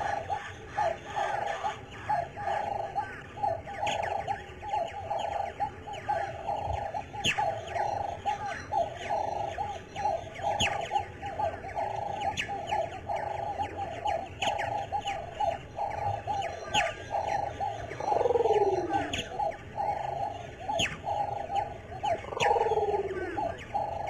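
Birds calling: a steady, rhythmic pulsing chorus, with a sharp high chirp every few seconds and two falling calls near the end.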